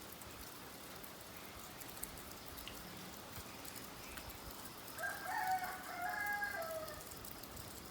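A rooster crows once, about five seconds in, a call of about two seconds that drops in pitch at the end, over a steady hiss of rain.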